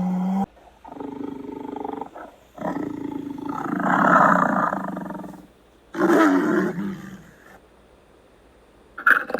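Tiger roaring: three long calls, the middle one longest and loudest, the last falling in pitch.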